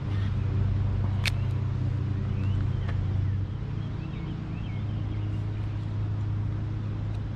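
Steady low rumble of a motor, which eases slightly about halfway through, with a sharp click about a second in and a few faint high chirps.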